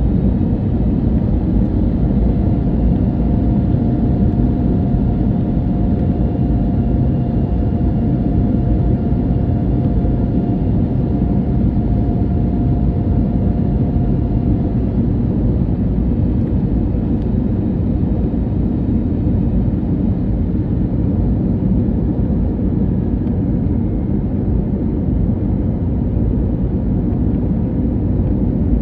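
Steady cabin noise inside an Airbus A321neo airliner: the even rumble of the jet engines and airflow past the fuselage. A faint steady hum runs through the first half and then fades.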